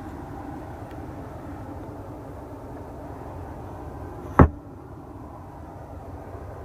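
One sharp, loud thump about four seconds in, over a steady low background rumble.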